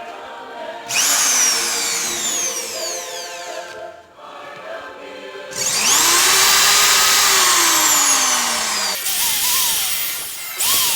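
Bosch GSB 13 RE electric drill running in three bursts, the middle one longest, its motor whine sweeping up in pitch as it speeds up and falling away as it winds down.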